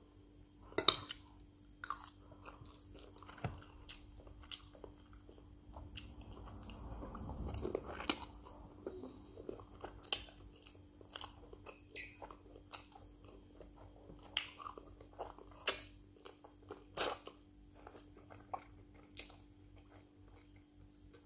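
A person eating white rice and stew with meat close to the microphone: chewing and mouth sounds, with irregular short wet smacks and clicks.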